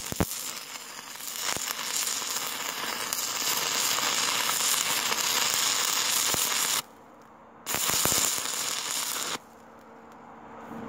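Stick-welding arc from a Thermal Arc 400 GMS welder: a steady crackling hiss that cuts out about seven seconds in, restrikes for under two seconds, then stops.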